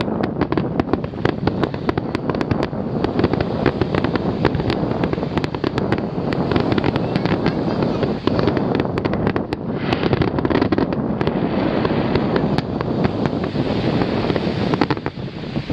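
Fireworks display going off in a rapid, continuous barrage: many sharp pops and crackles, one on top of another, over a steady rumble.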